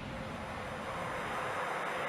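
Steady, even rushing noise of an aircraft on landing approach.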